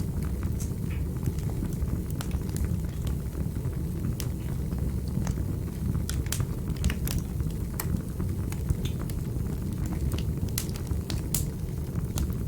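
Fire burning in a fireplace: a steady low noise under frequent, irregular sharp crackles and pops.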